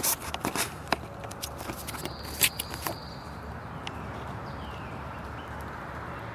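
Footsteps on the ground outdoors, a few irregular steps and knocks over the first three seconds. After that only a steady outdoor background hiss remains.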